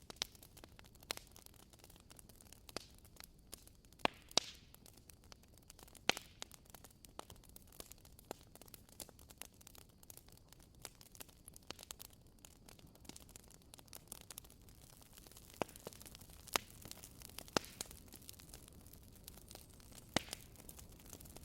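Wood fire crackling: irregular sharp pops and snaps from burning firewood over a faint steady hiss.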